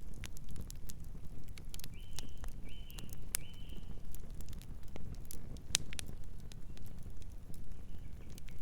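Campfire crackling, with scattered sharp pops over a steady low rumble of burning wood. About two seconds in, a bird chirps three times in quick succession, each chirp short and even in pitch.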